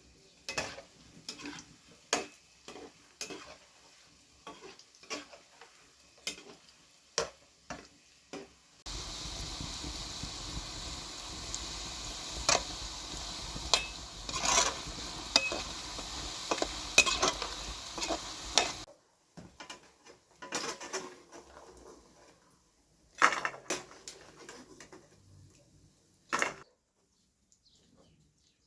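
Kitchen utensils clinking and scraping against pots and dishes, with a stretch of food sizzling as it fries in the middle that starts and stops abruptly. A few sharp clinks follow.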